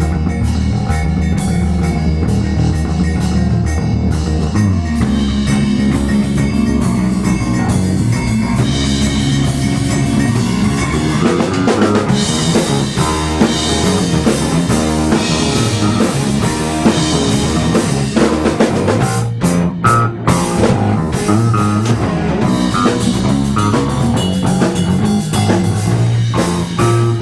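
Rock music with drum kit and guitar over sustained low notes and a steady, driving beat.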